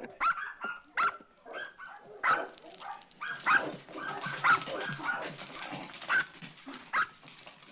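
Several dogs barking and yipping in short, separate calls, roughly one every half second to second.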